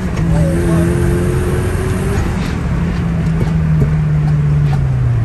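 Mazda Miata's four-cylinder engine running at steady revs, then easing down to a lower, steady note near the end.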